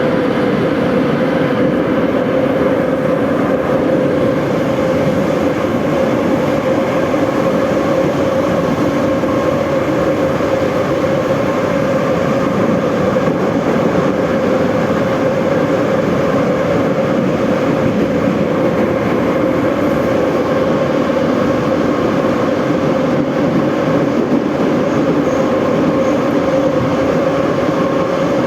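Interior of a Moscow Metro 81-717/714 subway car running at speed through a tunnel between stations: a steady loud rumble of wheels and track with a constant whine running through it.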